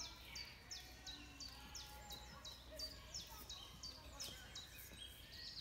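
Birds singing among trees: one bird repeats a short, high chirp that drops in pitch, about three times a second, with fainter birdsong beneath it.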